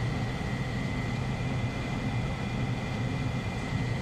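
Air handling unit's blower running steadily: a low hum with rushing air noise and a thin, steady high whine.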